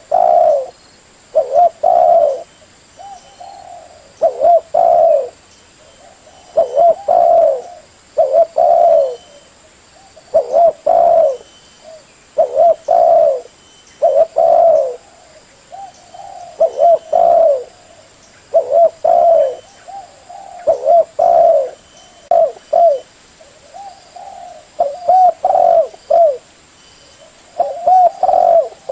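Spotted dove cooing over and over, in short phrases of two or three low, rolling notes, with a phrase about every two seconds. This is the tekukur lure call (suara pikat) used to draw spotted doves in.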